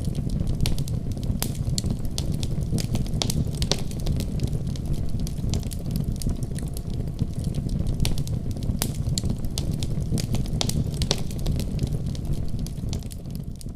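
Wood fire crackling in a fireplace: irregular sharp pops and snaps over a steady low rumble of the flames, beginning to fade out near the end.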